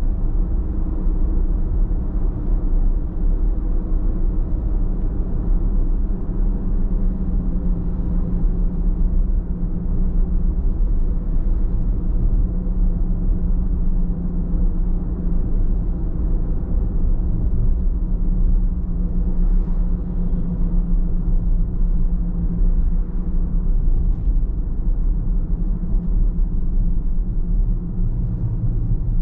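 Car driving at a steady pace: a continuous low rumble of road and engine noise with a faint steady hum.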